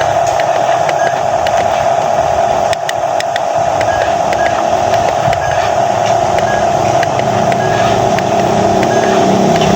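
Electric motor of a radio-controlled construction model running with a steady high whine, with scattered light clicks. A lower hum builds near the end.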